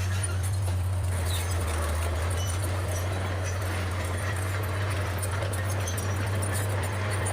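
Bulldozer's diesel engine running with a steady low drone, faint high squeaks scattered over it.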